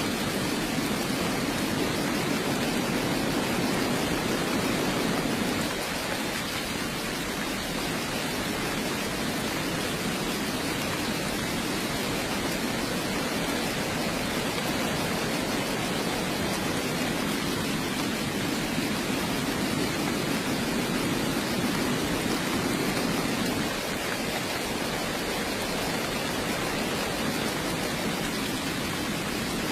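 Steady heavy rain: an even wash of noise with a fuller low band, dipping slightly in level twice.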